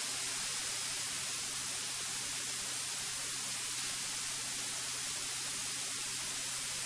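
Steady hiss of a cockpit intercom audio feed, with a faint steady hum of the light aircraft's engine beneath it during the climb-out.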